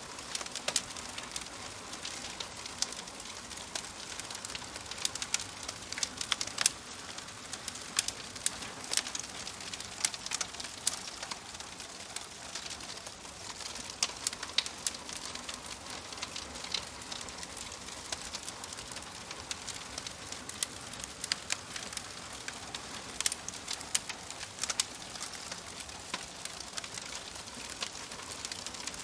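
Wood fire crackling steadily, with frequent sharp irregular pops and snaps over a soft hiss.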